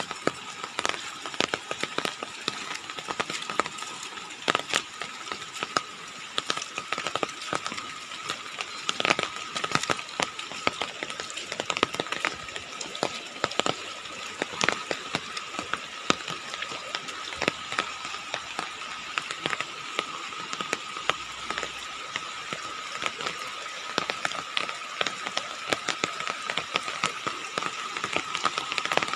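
Outdoor ambience: a steady high-pitched drone with many irregular clicks and crackles throughout.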